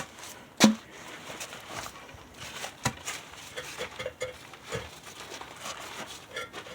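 A few sharp knocks, the loudest about half a second in and another near three seconds, amid lighter clicks and clatter of wood and metal parts being handled.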